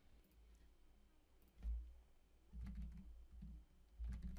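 Faint computer keyboard typing: a few scattered key clicks with dull low thumps, heard through a desk microphone.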